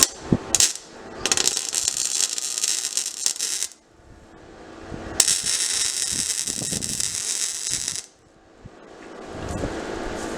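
Welding arc crackling in two bursts of about two and a half and three seconds, stopping and starting abruptly, as a T3 turbo flange is welded onto an exhaust manifold; a few short clicks come before the first burst.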